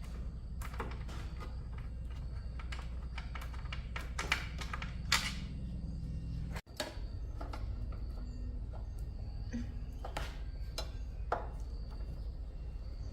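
Scattered clicks and knocks of tools and metal parts being handled during motorbike repair work, over a steady low hum.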